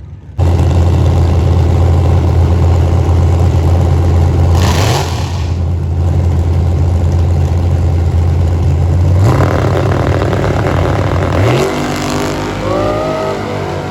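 A loud car engine comes in suddenly and runs at a steady high pitch. Its pitch steps up about five, nine and eleven seconds in, with fainter rising engine tones near the end.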